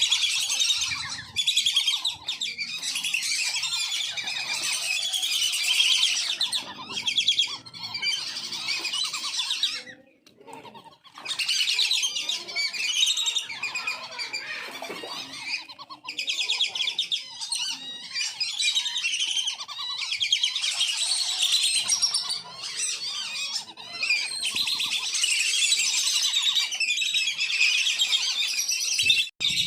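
A flock of whistling ducks calling together: many high, overlapping whistles and chatters, dropping away briefly about ten seconds in before resuming.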